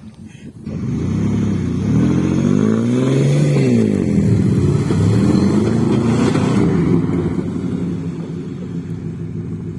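A car engine revving hard: it climbs in pitch to a peak about three seconds in, drops, then rises and falls again more gently, with a rushing noise under it.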